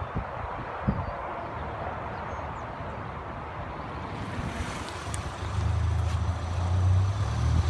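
Muffler-deleted Ford Focus ST's exhaust coming closer: a low, steady drone that rises in level over the last two seconds, over a haze of wind and road noise.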